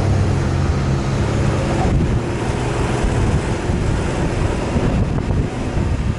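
An off-road 4x4's engine running with a low steady hum under loud road and wind noise while the vehicle drives.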